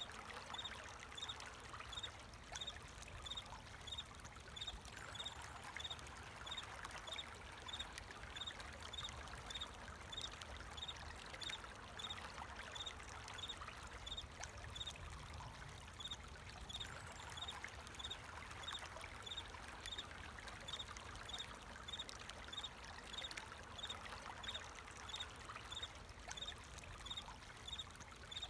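Water running and trickling steadily, with crickets chirping in a quick, even rhythm over it.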